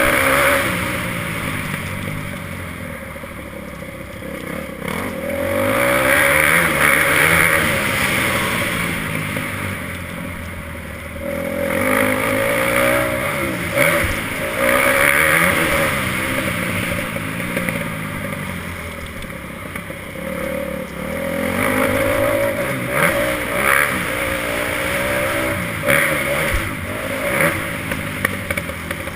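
Motocross dirt bike engine revving hard and dropping back over and over, its pitch sweeping up and down as the rider accelerates and shuts off.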